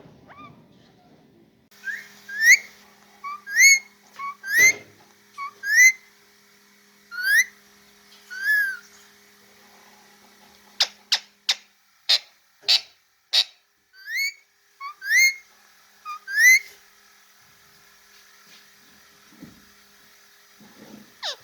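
A parrot whistling: a string of short upward-sweeping whistle notes, one every second or so, with a quick run of sharp downward-swooping notes about halfway through.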